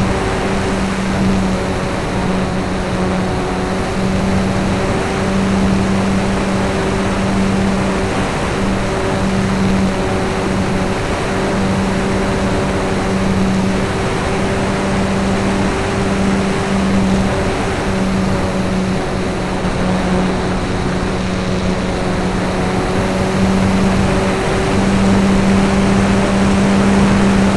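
Motor and propeller of a radio-controlled Il-2 model aircraft, heard from a camera mounted on the model: a steady buzzing hum under a constant rush of wind noise.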